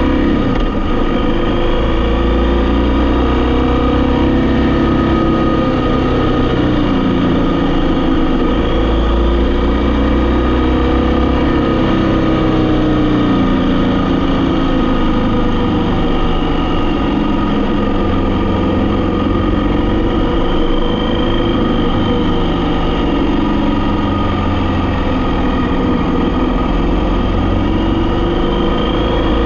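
Vehicle engine running while driving, its pitch slowly rising and falling as the speed changes.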